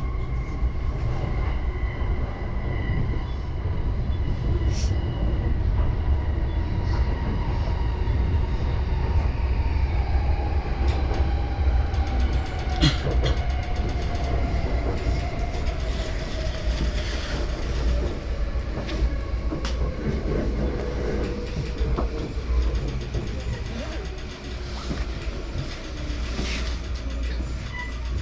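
Yamanote Line electric commuter train heard from inside the car: a steady low rumble of wheels on the track, with the motors' whine falling in pitch over several seconds as the train slows for the next station. A few sharp clicks are heard now and then.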